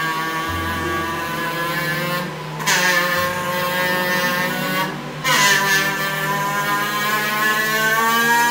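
Car engine sound effect accelerating, its pitch climbing steadily and dropping back at gear changes about two and five seconds in.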